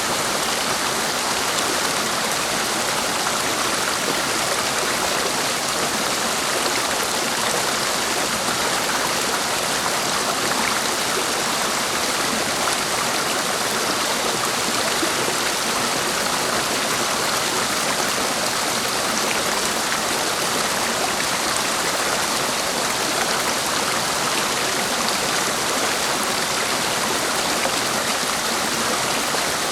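Clear mountain stream flowing over rocks: a steady, even rush of water.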